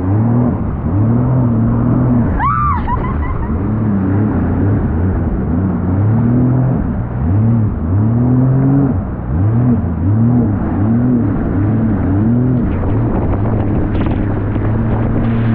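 Jet ski engine running under changing throttle, its pitch rising and falling over and over, then settling into a steady hum near the end.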